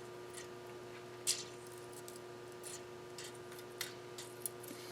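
A few faint, sharp metallic clicks and ticks from a steel feeler gauge blade and straight edge being handled on the engine's deck surface, over a faint steady hum.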